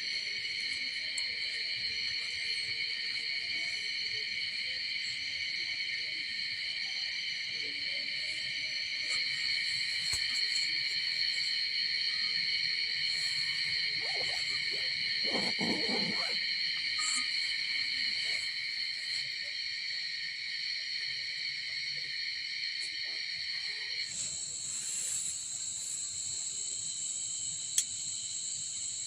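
Insects in the forest keep up a steady, high-pitched chorus of buzzing. About five seconds before the end the chorus shifts to a higher pitch. A brief rustling noise comes near the middle, and a single sharp click comes near the end.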